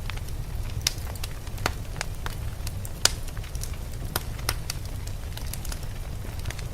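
Wood fire crackling in a fireplace, with irregular sharp pops and snaps, one louder pop about three seconds in, over a steady low rumble.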